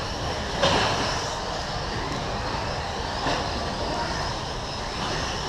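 Several electric radio-controlled short course trucks (17.5-turn brushless class) running around the track, a steady wash of motor and tyre noise.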